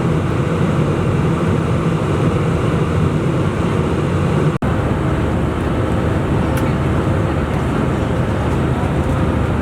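Steady, loud rumble of airliner cabin noise inside an Airbus A320, engines and airflow, cut off for an instant about four and a half seconds in before it carries on unchanged.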